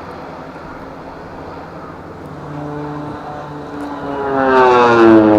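OV-10 Bronco twin-turboprop aircraft flying past, its engine and propeller sound swelling to a loud peak near the end and dropping in pitch as it passes.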